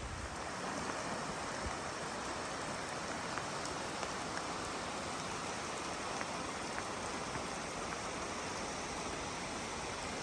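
Heavy, steady rain falling in a downpour, with a few sharper drops ticking close by now and then.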